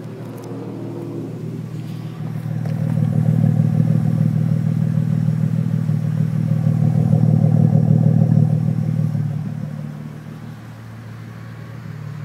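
Exhaust of a 1998 Mitsubishi 3000GT's SOHC 3.0-litre V6 breathing through an intake, test pipe and custom 2.5-inch cat-back, a deep, fairly steady note. It grows louder about two seconds in, stays loud for several seconds, then falls back near the end.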